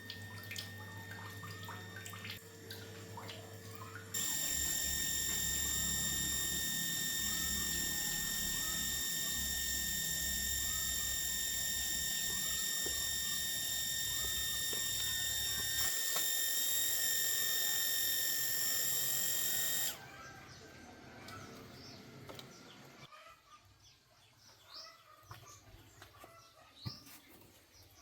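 Electric booster water pump running with a steady low hum and a high-pitched whine. It starts suddenly about four seconds in and cuts off about sixteen seconds later. Birds chirp faintly after it stops.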